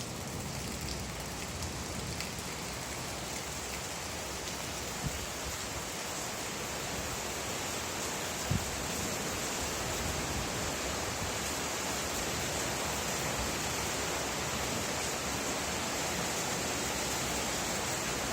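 Steady rain falling, an even hiss with two brief louder taps, one about five seconds in and a stronger one just past eight seconds.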